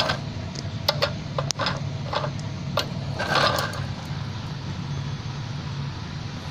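Light plastic clicks and a short scrape from a hamster's Kaytee Critter Cruiser toy car being pushed, over a steady low hum.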